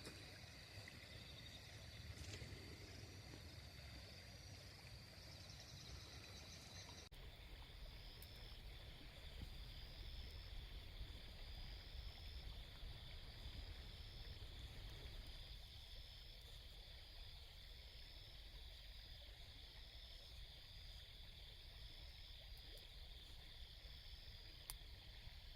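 Faint outdoor ambience: a steady high-pitched insect chirring over a low wind rumble, changing abruptly about seven seconds in.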